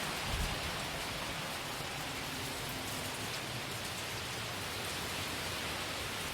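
Steady hiss of hurricane rain and strong wind, even and unbroken.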